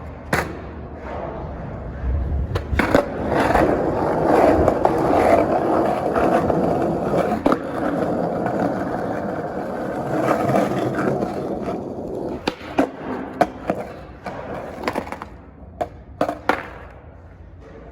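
Skateboard wheels rolling on a parking garage's concrete floor, a steady rumbling roll. Near the end it gives way to a string of sharp clacks and knocks from the board.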